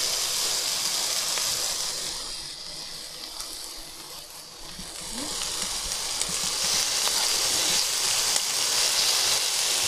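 Thin pork slices and beef sizzling in a non-stick frying pan: a steady hiss with small crackles. It dips quieter for a few seconds in the middle, then comes back louder and more crackly.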